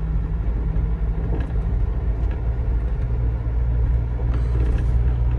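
Low, steady rumble of a GAZelle Next van running, heard from inside the cab.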